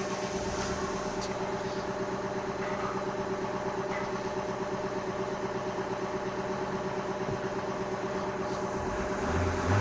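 Nissan March's CR14-DE 1.4-litre inline-four running at a steady, even idle that does not hunt, on a test run before dismantling. Near the end a louder, lower note comes in as the sound grows.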